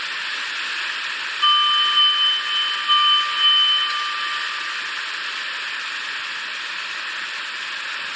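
Chikuma River in typhoon flood, its water rushing with a steady hiss. About a second and a half in, two steady high tones sound over it for about three and a half seconds, then stop.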